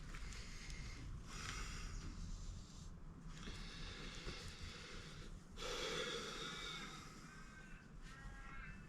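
Engine oil draining from an upturned bottle into a funnel, a faint hissing trickle in stretches of a couple of seconds with short breaks.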